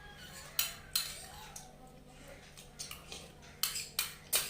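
Clinks and clicks of eating from plates, about five sharp knocks against the dishes, two about a second in and three near the end.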